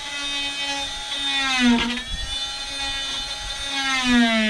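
Power tool motor whining at high speed. Its pitch sags briefly under load about a second and a half in, then drops again near the end as it bogs into the work.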